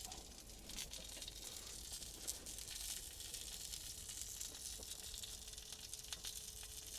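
Basil sausages sizzling faintly in a pan, a steady hiss with a few light crackles of spitting fat.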